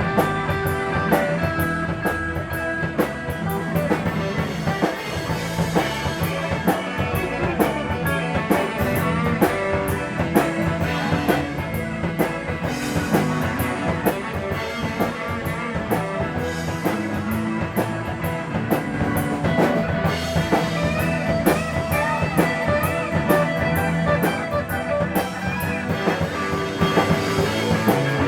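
Blues-rock band playing with drums and electric guitar, in a steady shuffle beat, with bent guitar notes in the second half.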